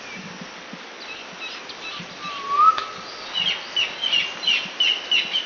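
Birds calling: a single whistled call about two seconds in, then a fast run of short high chirps, two or three a second, through the second half.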